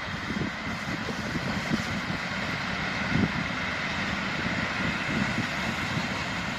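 PKP ET22 six-axle electric freight locomotive with its train running along the line, a steady rumble of wheels on rails growing slightly louder, with a faint steady high tone above it.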